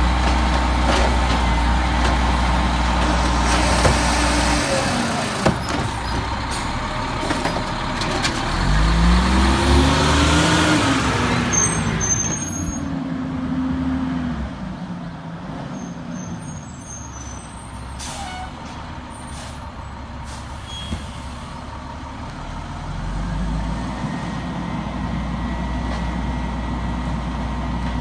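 Peterbilt 320 garbage truck's diesel engine idling, then revving up and back down about nine seconds in, with a long hiss of air at the same time. It then runs quieter before picking up again near the end.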